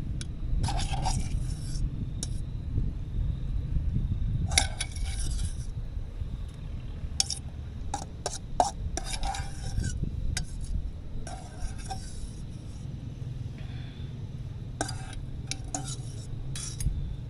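Metal utensil stirring, scraping and clinking against cookware in short bouts, with scattered sharp clicks.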